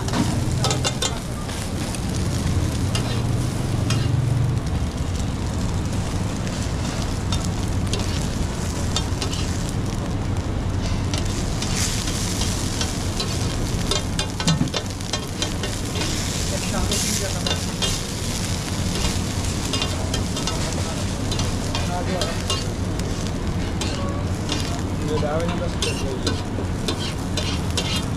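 Food sizzling as it fries on a hot griddle, with frequent short sharp clicks and scrapes over a steady low hum.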